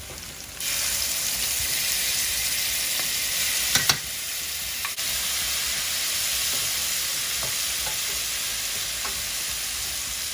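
Onions, garlic and ginger paste sizzling in hot oil in a stainless steel frying pan, stirred with a wooden spoon. The sizzle jumps up loudly about half a second in as the ginger paste hits the oil, then holds steady. A couple of sharp knocks of the spoon against the pan come a little before the middle.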